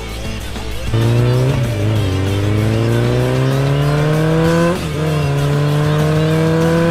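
Truck engine sound effect accelerating hard. The engine note climbs steadily, drops abruptly about two-thirds of the way through like a gear change, then climbs again.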